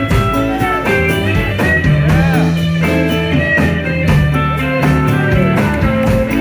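Live blues band playing an instrumental break: a lead guitar playing bent notes over held bass notes and drums.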